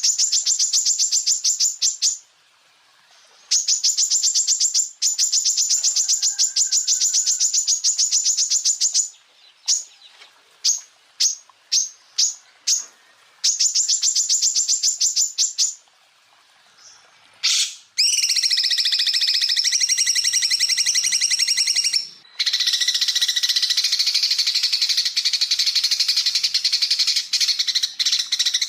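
Green leafbird (cucak ijo) singing. It gives fast trills of rapidly repeated high notes in bursts of about two seconds, with single sharp chips between them. About two-thirds of the way through it switches to a long, dense, buzzy trill lasting roughly ten seconds, broken once briefly.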